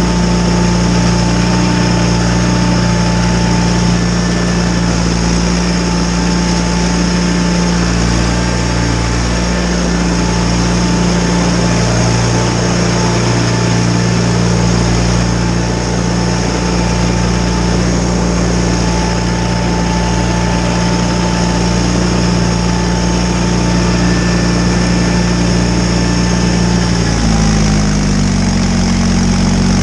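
John Deere 318 garden tractor's Onan two-cylinder engine running steadily under load while driving a Model 49 front snowblower. The engine note steps up in pitch near the end.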